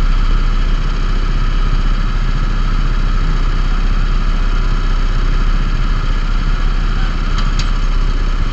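A vehicle's engine idling steadily.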